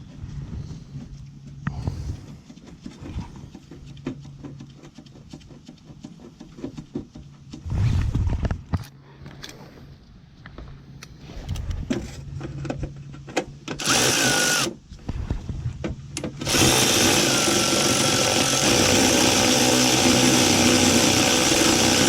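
Cordless power drill/driver running fasteners: a short run about two-thirds of the way in, then a longer continuous run of several seconds near the end. Before it, clicks and knocks from parts and tools being handled.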